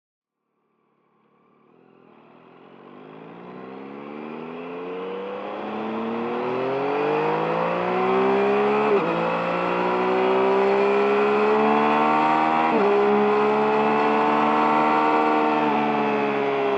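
Yamaha MT-09's 890 cc inline-three engine pulling under acceleration, its pitch climbing and dropping suddenly twice as it shifts up through the gears. The sound fades in from silence over the first few seconds.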